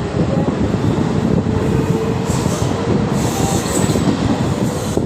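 Mumbai suburban local train running along the track: a loud, steady rumble and rattle of the carriage and wheels.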